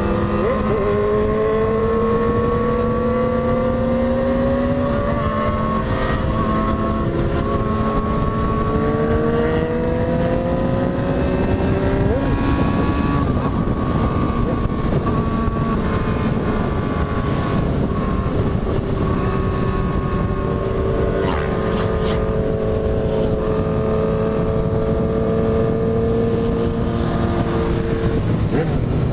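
Motorcycle engine running under way, its pitch climbing slowly and dropping back several times as it accelerates and changes gear, over a steady rush of wind.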